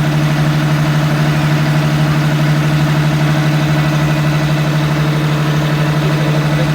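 NJ Transit bus 3057's engine running at a steady idle: a constant low drone with an even, slight pulsing and no revving.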